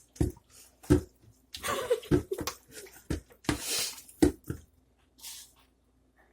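Food-prep sounds in a kitchen: several sharp knocks roughly a second apart, with short hissing, splashy bursts between them, fading out after about five seconds.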